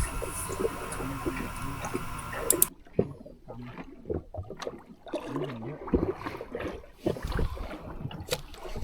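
Water lapping and sloshing against a small fishing boat's hull at sea, with scattered light knocks. The sound changes abruptly a little under three seconds in, becoming quieter and more uneven.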